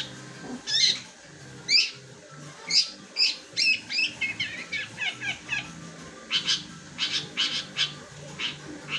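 Long-tailed shrike (cendet) singing: a string of short, sharp, sparrow-like chirps, spaced about a second apart at first, then a quick run of chirps in the middle and more calls near the end. The owner says the song is below its best because the bird lacks extra feed and sunning.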